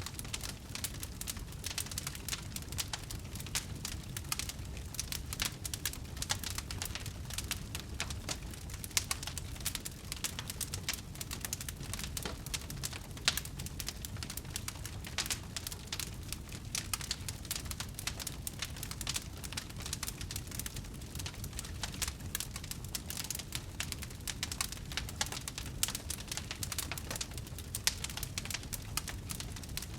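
Wood fire crackling steadily: many small sharp snaps a second over a low, steady rumble, with one louder pop about thirteen seconds in.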